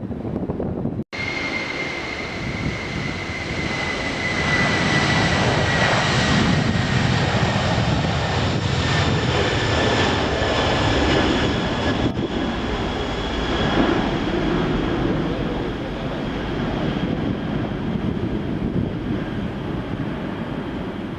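Jet airliner taking off, its engines a steady roar that swells a few seconds in, with a high whine that slowly falls in pitch. The sound cuts out briefly about a second in.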